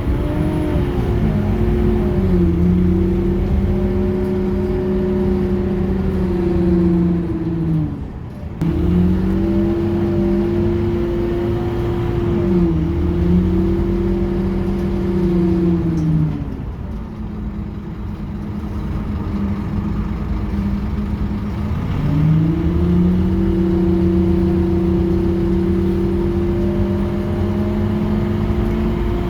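Scania K230UB bus's diesel engine and driveline heard on board while under way: a rumble with a steady whine over it. The whine's pitch dips and recovers several times as gears change, runs lower for a few seconds, then rises again as the bus pulls away.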